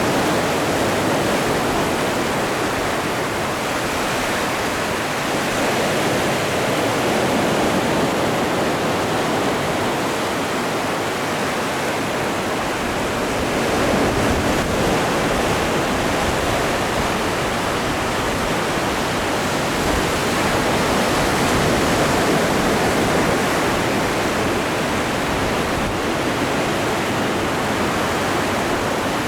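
Atlantic Ocean surf: a steady wash of breaking waves, swelling a little louder now and then.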